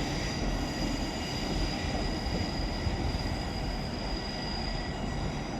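A train moving through the station, with a steady high-pitched squeal of wheels on rail over the running noise.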